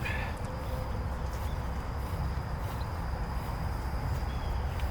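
Outdoor background noise: a steady low rumble with a faint, constant high-pitched tone over it, insect-like, and no distinct events.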